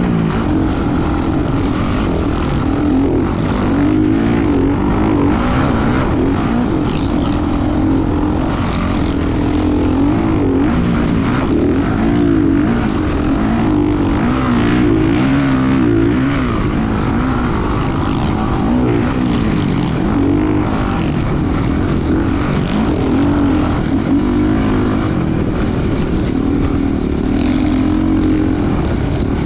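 Dirt bike engine running continuously, its revs rising and falling over and over.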